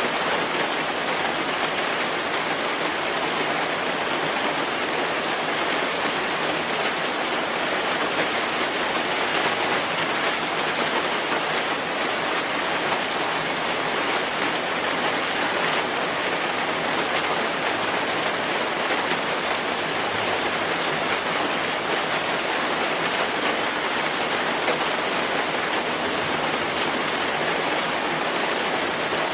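Steady rainfall: an even hiss of rain on a surface, with a few faint ticks of single drops and no thunder or wind.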